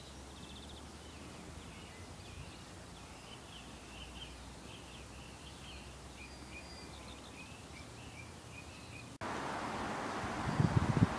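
Small birds chirping faintly and repeatedly over a low steady hum. About nine seconds in, this cuts abruptly to a louder steady hiss, with wind buffeting the microphone near the end.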